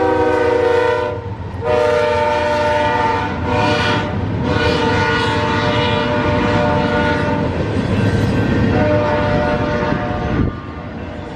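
Freight diesel locomotives passing with the air horn sounding several long blasts over the rumble of the engines and rail cars. The horn chord sits lower in pitch near the end. The sound falls away shortly before the end.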